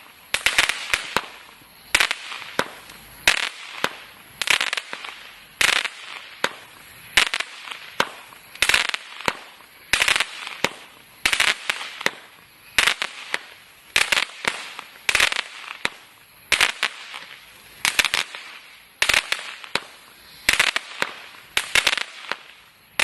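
Total FX 'Crackling Wood' firework cake firing shot after shot, a sharp report about every second and a bit. Each report is followed by a brief crackle.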